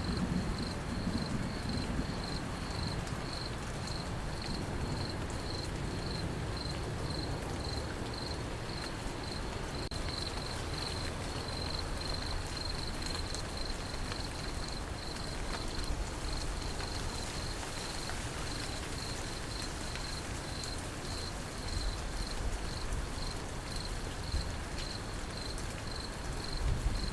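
Crickets chirping in a steady rhythm, about two chirps a second, over a continuous hiss of rain. A low rumble of thunder fades out in the first second or two.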